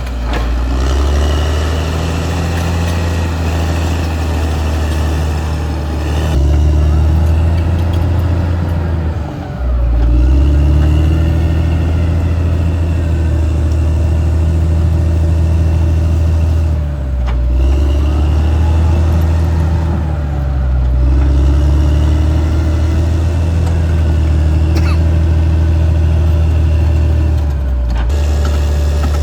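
Caterpillar D6R XL bulldozer's diesel engine running hard as the dozer works. Its note dips and recovers several times as the load changes.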